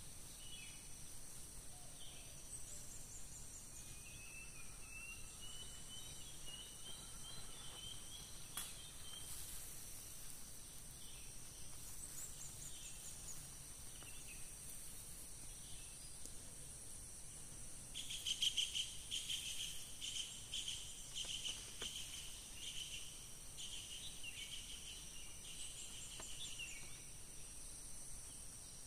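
Forest ambience: insects keep up a steady high-pitched drone, with bird calls over it. There is a rising, warbling call a few seconds in, and a rapid pulsing trill, the loudest sound, a little past the middle.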